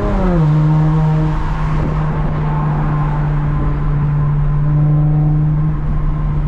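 A Lexus IS350's 3.5-litre V6 running at a steady cruise through a muffler-delete exhaust with a catless midpipe, giving a loud, even drone. Its pitch falls a little right near the start, then holds steady.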